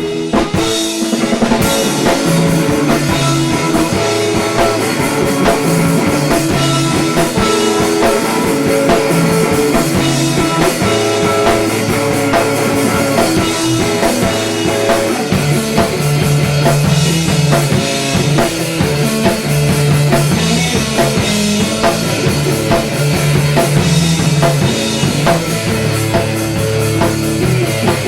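Three-piece indie-pop band playing live, with drum kit, guitar and bass.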